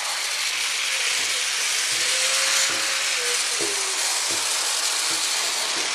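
Motorised Thomas TrackMaster toy train, upgraded to a 9-volt battery, running fast: a steady high whir from its gearbox with soft clicks repeating about every three quarters of a second.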